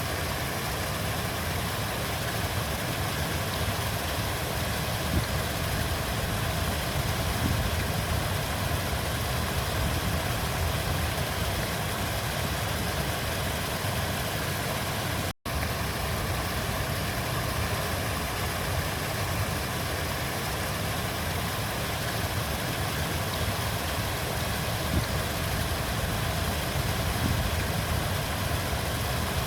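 River water flowing: a steady rushing noise with a low rumble, which cuts out for an instant about halfway through.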